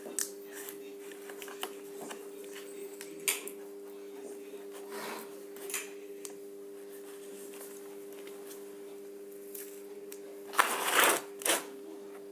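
Paper medical tape being handled and wrapped: scattered small clicks and rustles, with a louder crinkling, tearing burst about eleven seconds in. A steady low hum runs underneath.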